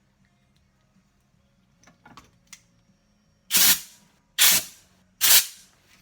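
Three short hissing blasts of spray, a little under a second apart, each cutting off and fading quickly, a couple of faint clicks before them.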